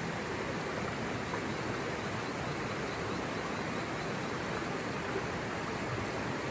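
Rushing water, a steady even rush without breaks.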